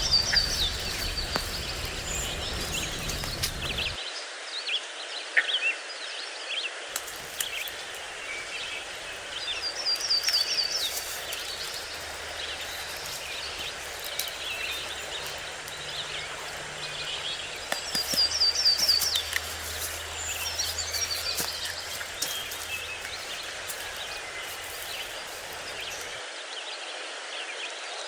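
Small birds singing outdoors, a short quick series of high notes repeated every several seconds, over a steady background hiss with scattered small clicks.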